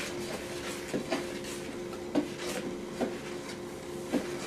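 A spoon stirring dry powdered sugar and cocoa in a mixing bowl, making soft scrapes about once a second, over a steady low hum.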